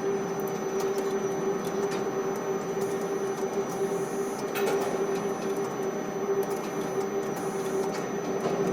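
Quay crane machinery running with a steady hum and one constant mid-pitched tone, with a few faint clicks.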